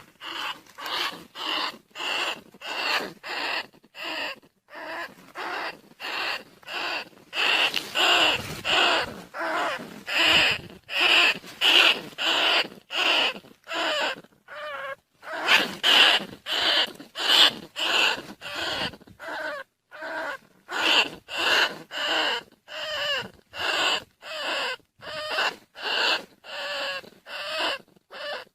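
Recorded rat lure call: short squeaking calls repeated about twice a second in a steady train, used to draw rice-field rats and bandicoot rats.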